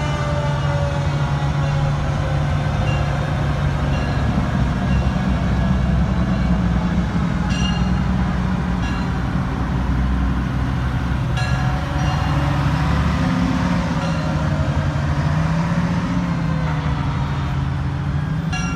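Heavy fire apparatus engines rumbling as the trucks pass in the parade. A siren slowly winds down in the first couple of seconds, and there are a few short horn toots about eight and eleven seconds in.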